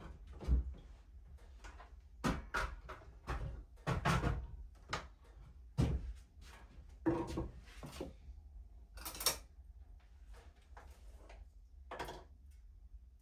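Irregular knocks and clunks of things being handled, opened and set down, about a dozen spread unevenly, with a brief hiss about nine seconds in.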